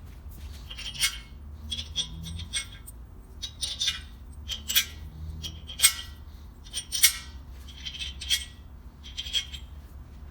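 Metal parts and tools clinking and knocking together in short, irregular strikes, about a dozen, with a brief ring after the louder ones.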